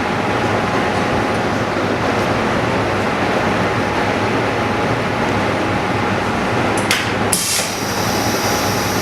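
OCA vacuum laminator running its automatic cycle with a steady mechanical drone. About seven seconds in, a sudden rush of air followed by a high hiss lasting a couple of seconds, as the vacuum releases at the end of the cycle.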